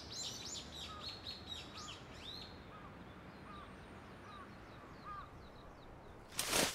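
Small birds chirping outdoors: a quick run of short, high chirps for the first couple of seconds, then fainter, scattered calls over a low background hiss. A short, loud burst of noise comes just before the end.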